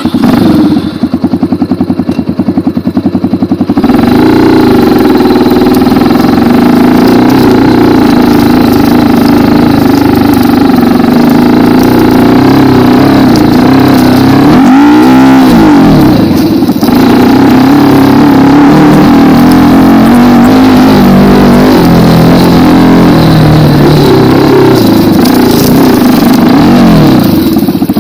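Racer 250 K2 dirt bike's 172FMM 250 cc single-cylinder four-stroke engine, very loud and close. It starts up, runs at an even idle for about four seconds, then is ridden off with the revs rising and falling, with one quick rise and drop about halfway through.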